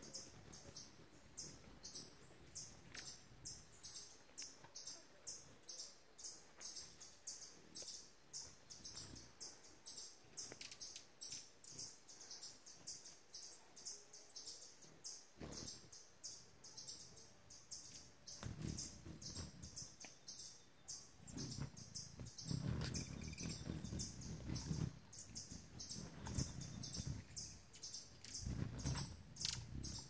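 High-pitched bird chips repeated steadily, about two or three a second. About halfway through, a lower rushing, fluttering noise starts to come and go beneath them.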